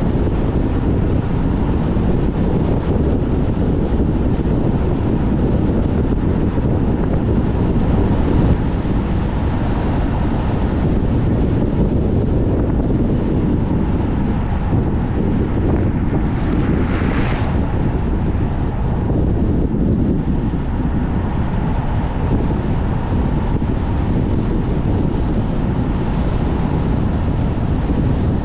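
Strong wind buffeting the microphone as a loud, steady low rumble, mixed with the running noise of a car driving. About sixteen seconds in, a brief hiss swells and fades.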